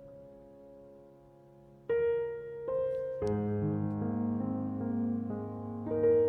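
Background music: gentle solo piano. A held chord fades over the first two seconds, then new notes are struck about two seconds in and the melody moves on.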